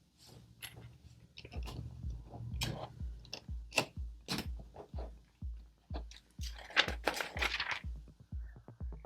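Plastic LEGO pieces clicking and clattering: pieces being picked from a pile and pressed onto plates, with a brief rummaging through loose parts about seven seconds in.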